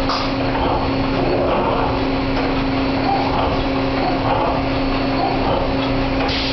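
CNC wire bending machine running, with a steady hum under continuous mechanical noise.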